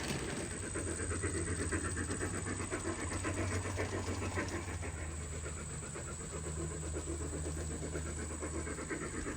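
Garden-scale model train running along its track: a steady low hum under a fine, continuous rattle and hiss.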